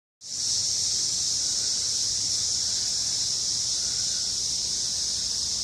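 Steady chorus of insects making a constant, high-pitched drone.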